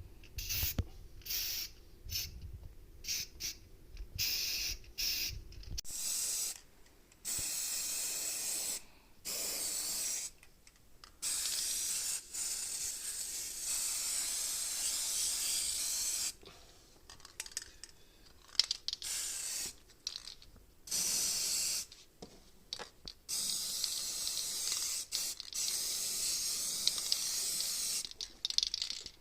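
Spray paint hissing out in repeated bursts, some short and some lasting two to three seconds, with brief pauses between.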